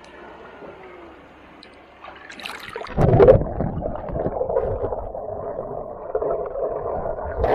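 Stream water gurgling and churning right at the microphone, starting suddenly about three seconds in after a quieter stretch.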